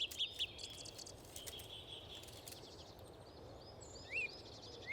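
Birds calling against a faint steady background: a few quick high chirps at the start, then two short rise-and-fall calls near the end, the first of an evenly spaced series.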